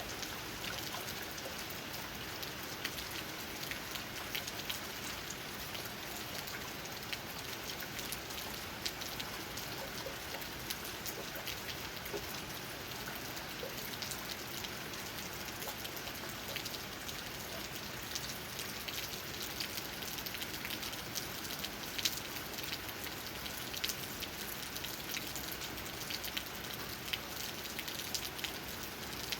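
Steady rain falling, with many small raindrop taps on leaves and a few sharper individual drops standing out.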